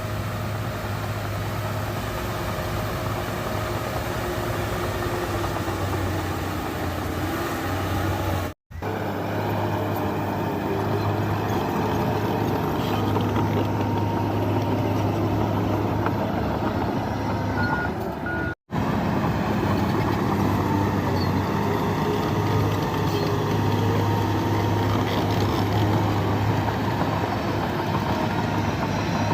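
Bulldozer's diesel engine working steadily under load, with a deep hum and wavering whines from the machine. Near the middle there is a pair of short high beeps. The sound drops out briefly twice.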